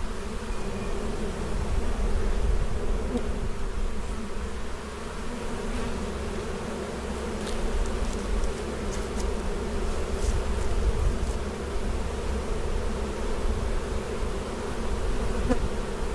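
A large honeybee colony buzzing loudly and steadily around an opened hive: a dense, unbroken hum from many bees in the air, the sound of a disturbed, agitated colony.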